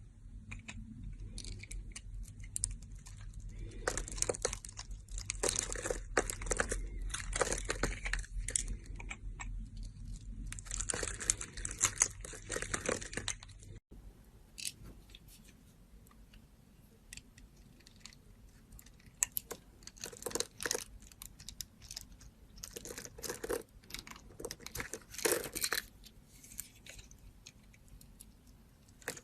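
A knife cutting into bar soap with crisp crunching and scraping strokes. The strokes come thick and fast over a low hum for about the first fourteen seconds, then the sound changes abruptly to sparser, separate cuts.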